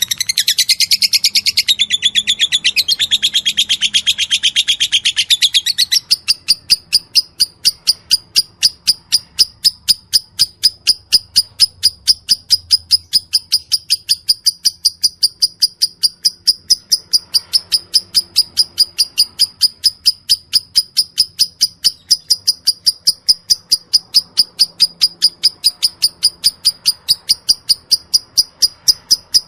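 Lovebird chattering in a dense, high-pitched rattling run, the long 'ngekek' song. About six seconds in it gives way to a steady series of sharp high chirps, about four a second.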